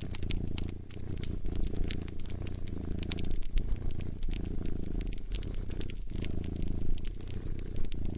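Cat purring close up, a low rumble that pulses with each breath, over a crackling wood fire with frequent sharp pops and snaps.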